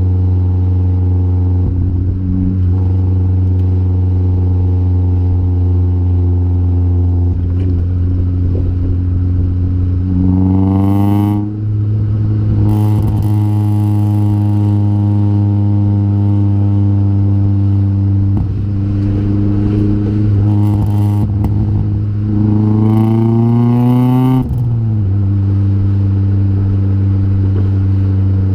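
Acura Integra GSR's 1.8-litre DOHC VTEC four-cylinder idling steadily through a Vibrant aftermarket exhaust, blipped up and back down twice, about ten seconds in and again about twenty-two seconds in.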